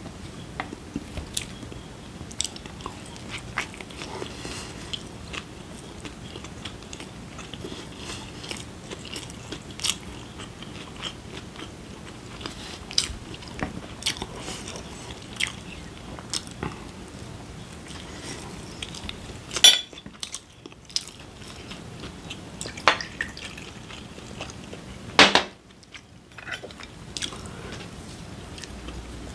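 Close-miked chewing and biting of large Korean dumplings (mandu), with many small wet mouth clicks and smacks. Two louder sudden sounds come about 20 and 25 seconds in, each followed by a moment of hush.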